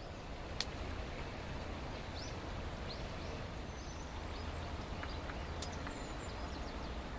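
Faint, short bird chirps a few times over a steady low background rumble, with a couple of sharp clicks.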